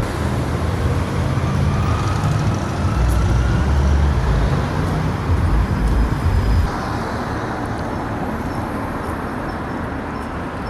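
Street ambience of road traffic: a steady noisy rumble of passing vehicles, whose low rumble eases and the sound changes about two-thirds of the way through.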